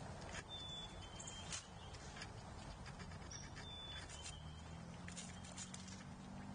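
A songbird whistling a clear two-note song, the second note a little lower, repeated three times about three seconds apart, over scattered light ticks and taps of feeding at the feeder.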